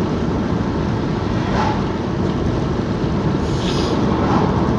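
Steady road and engine noise of a moving car heard from inside the cabin, with a couple of brief faint higher sounds about a second and a half and three and a half seconds in.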